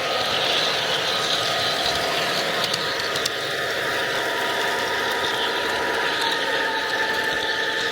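G-scale model train running: a steady mechanical hum and whine with fine, fast clicking from its running gear.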